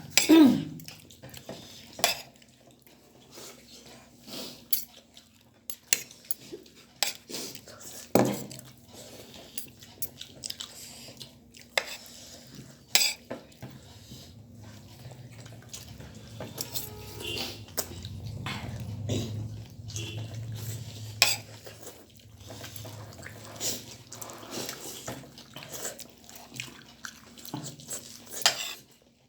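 Cutlery clinking and scraping against plates and bowls while people eat, a run of irregular sharp clinks with one louder knock right at the start.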